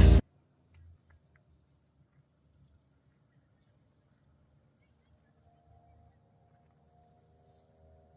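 Music cuts off right at the start; then cedar waxwings give faint, high, thin, wavering calls.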